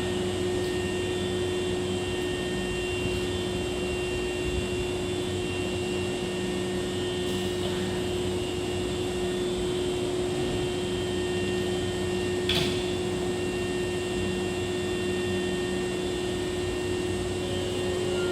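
Steady electrical and mechanical hum of a Hankyu 7000-series electric train standing at the platform, with one constant low tone and fainter high whines. A single short click comes about two-thirds of the way through.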